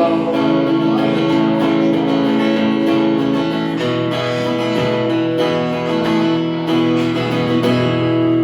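Acoustic guitar strumming chords, the instrumental ending of the song with no singing. The chord changes about four seconds in.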